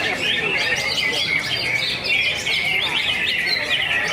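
Cucak hijau (green leafbird) singing a rapid, unbroken stream of chirps and short sweeping trills.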